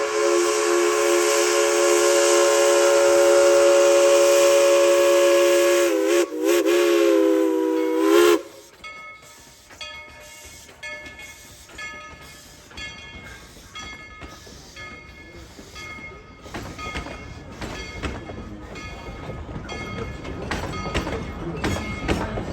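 Steam locomotive whistle held in one long chime blast of about eight seconds, wavering briefly near the end before cutting off sharply. After that, a bell rings steadily about twice a second over the running train's rumble, which grows louder toward the end.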